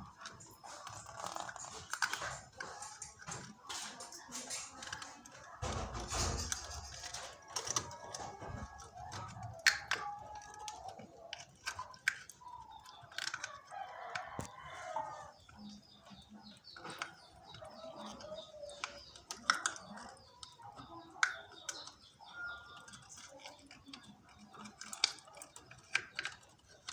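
Scattered clicks and knocks of hands working on a washing machine, with one heavy low thump about six seconds in. A bird, most like a chicken or rooster, calls around the middle.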